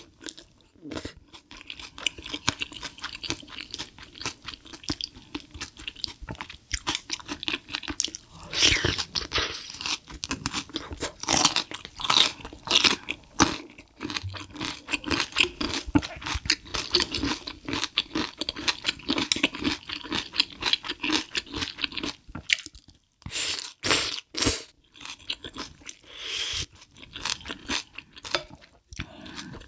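Close-miked eating: steady chewing with crisp crunches, pausing briefly about three quarters of the way through.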